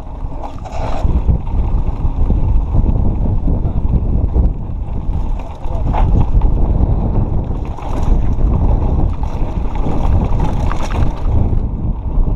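Wind buffeting the microphone on a fast mountain bike descent, a loud, steady low rumble, with the bike rattling and knocking over rough trail a few times.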